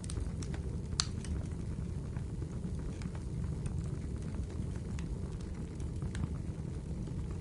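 Wood fire burning in a fireplace: a steady low rumble of flames with scattered crackles and pops, one sharper pop about a second in.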